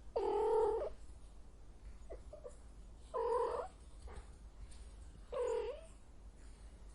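A cat meowing: three drawn-out calls, a couple of seconds apart.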